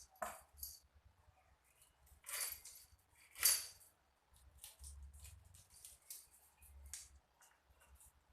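Short scrapes and small clinks of a fish being cleaned by hand with kitchen utensils, a few brief rasps, the loudest about three and a half seconds in, among scattered light taps.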